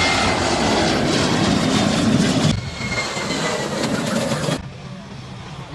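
Jet airliner passing low overhead: a loud roar with a slowly falling whine. It drops away abruptly about two and a half seconds in, and again near the end to a softer rush.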